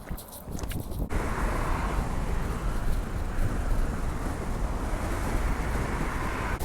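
Steady wind rushing over the microphone, starting abruptly about a second in, with a heavy low rumble.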